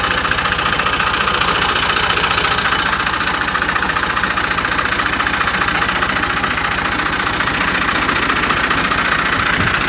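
Fiat 480 tractor's diesel engine idling steadily, with an even, unchanging beat.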